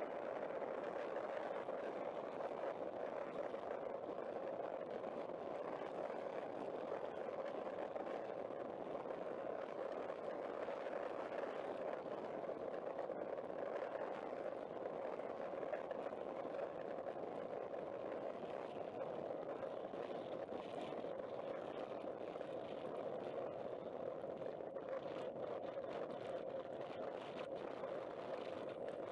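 Benelli Zafferano 250cc maxiscooter running at a steady cruise, its engine and the wind heard as one steady, muffled rush with little treble, as through a camera packed in a case.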